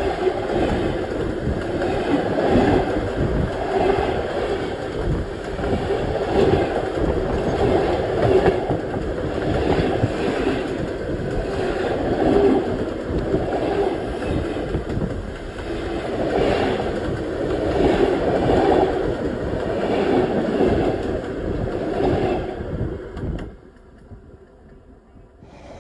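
Train wheels rolling on the rails directly overhead as passenger coaches pass over the track: a loud, steady rumble and clatter that swells and fades in a regular beat about every two seconds. It drops away suddenly near the end as the last coach clears.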